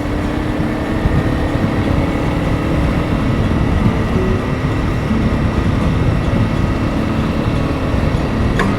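Honda CRF300 Rally's single-cylinder engine running steadily at road speed while the motorcycle is ridden.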